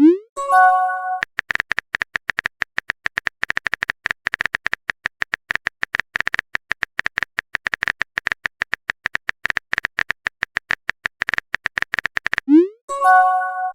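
Phone texting sound effects: a rising swoosh and a short chime, then a long run of rapid, irregular keyboard tap clicks, then another swoosh and chime near the end.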